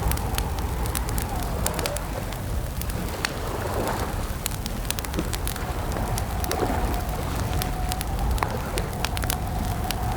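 Campfire crackling: frequent sharp pops and snaps over a steady low rumble, with a faint wavering tone underneath.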